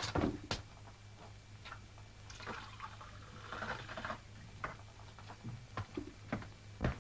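Water filling a glass for about two seconds, with a few light knocks and clinks of glassware before and after, over the steady low hum of an old film soundtrack.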